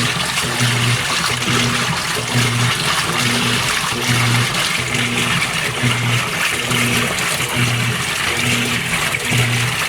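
GE Spacemaker top-load washer agitating in the rinse stage: the drive motor hums in short pulses a little more than once a second as the agitator strokes back and forth, over steady water sloshing in the tub.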